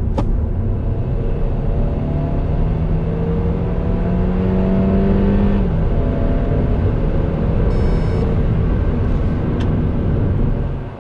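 Kia Ceed 1.5 T-GDi's turbocharged four-cylinder petrol engine pulling hard under full throttle, heard from inside the cabin over road and tyre rumble. The engine note rises steadily, drops abruptly about five and a half seconds in as the seven-speed dual-clutch gearbox shifts up, then pulls on.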